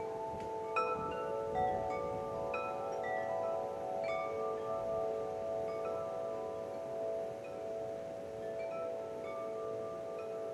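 Wind chimes ringing, struck irregularly so that their sustained metallic tones overlap, with a couple of louder strikes between one and two seconds in.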